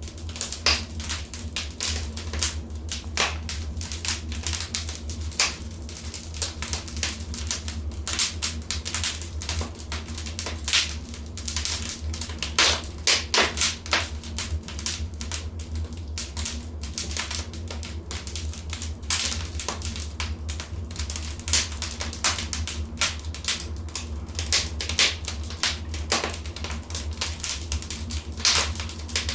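Wood fire crackling in a fireplace: dense, irregular snaps and pops, several a second, over a steady low rumble.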